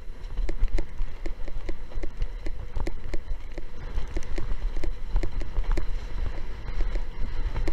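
Strong wind buffeting the microphone with a heavy low rumble, over rapid irregular knocks and slaps, about three or four a second, as a windsurf board runs over choppy water.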